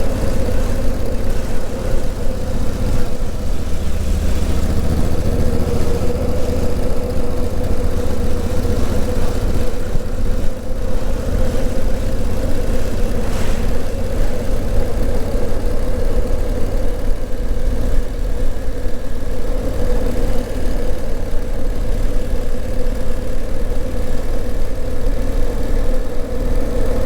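Honda CRF1000L Africa Twin's parallel-twin engine running at a steady, moderate speed under the rider, with little change in revs.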